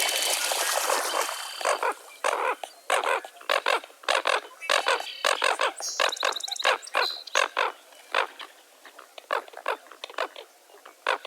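A chorus of birds calling: many short, harsh calls, one after another, several at a time near the start and thinning out later, with a few brief whistled notes mixed in.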